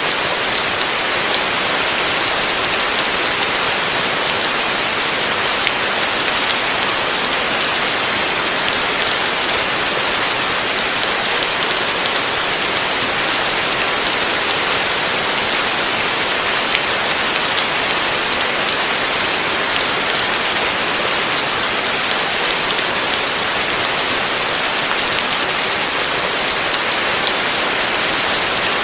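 Heavy rain falling steadily on a roof: a dense, even hiss of countless drops that never lets up.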